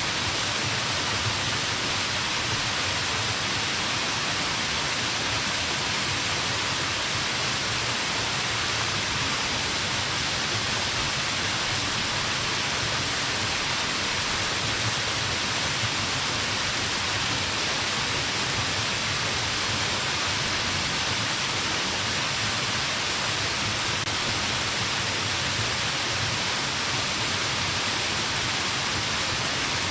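Small waterfall pouring steadily onto rocks and a plunge pool: a constant, even rush of falling water.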